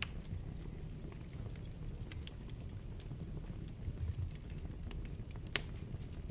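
Wood fire burning in a fireplace: a low rumble of flames with scattered crackles and snaps, and one sharper pop near the end.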